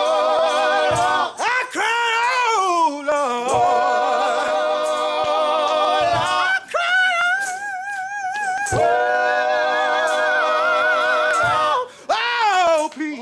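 Gospel singing. Long held sung notes with vibrato and gliding melismatic runs, broken by short breaths.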